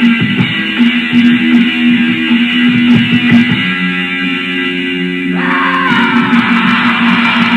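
Lo-fi black metal: electric guitar and bass holding chords, muffled, with nothing in the highs. About five seconds in, a harsher, brighter layer comes in over the chords.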